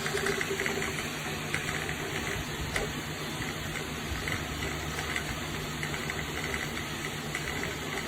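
Small radial blower fan running: a steady whirring hiss with a low hum underneath.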